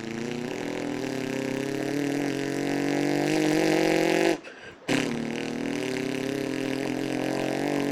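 A person imitating a Ferrari 458 Spider accelerating away with his mouth: a long, steady vocal engine note that rises slightly in pitch, a short break for breath about four and a half seconds in, then a second long engine note.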